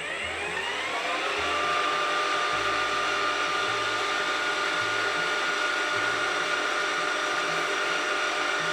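Milling machine spindle motor starting, its whine rising in pitch over the first second and a half, then running steady at speed, ready for cutting the scale's graduation lines.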